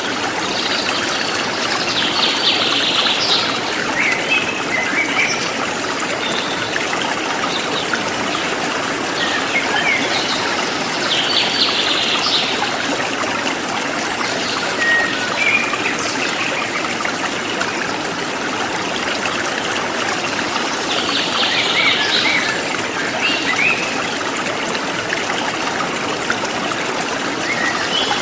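A forest stream flowing steadily, with small birds chirping over it now and then. A short song phrase comes three times, about every ten seconds.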